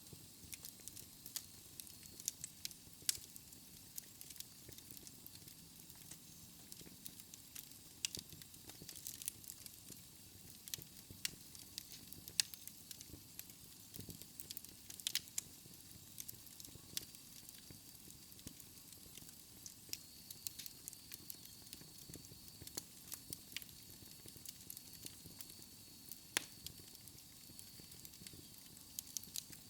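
Wood fire in a fireplace crackling, with quiet, irregular sharp pops and snaps over a soft steady hiss.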